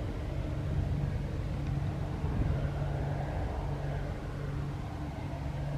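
Steady low engine drone over a background hiss, running evenly without rising or falling.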